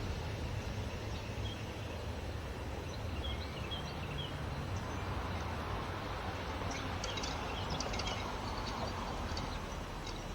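Birds chirping in short high calls, a few early and a cluster later, over a steady low outdoor rumble.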